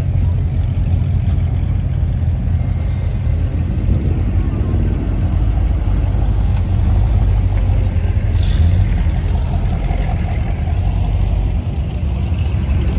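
Car engine idling close by, a steady deep low rumble.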